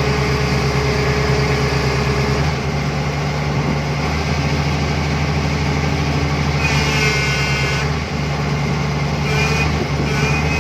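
Heavy diesel engine running steadily; its note shifts about two and a half seconds in. A brief high-pitched tone sounds about seven seconds in.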